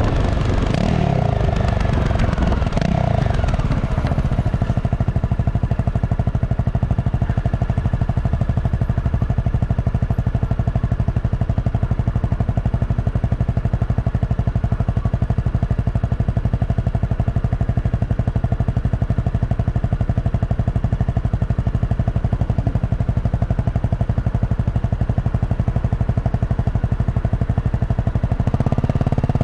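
Honda CRF250 Rally's single-cylinder engine running through its stock exhaust. Its pitch slides about in the first few seconds, then holds a steady note.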